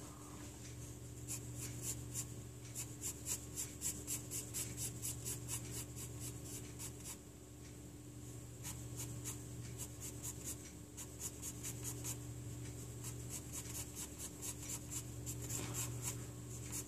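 Pencil scratching on paper in rapid short strokes, several a second, shading with many short lines, with a pause of about a second and a half near the middle. A faint steady low hum runs underneath.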